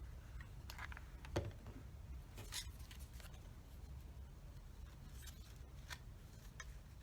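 Faint handling sounds of popsicle sticks and cardboard being worked by hand: scattered light taps and rustles, with one louder thump about a second and a half in.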